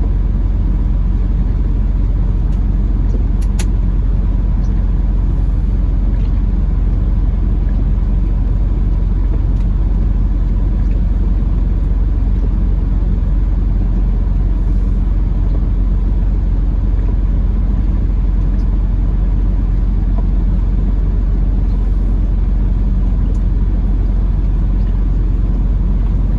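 Peterbilt 579 semi truck's diesel engine running steadily at low speed, a constant low rumble, with a faint steady high tone and a single click about three and a half seconds in.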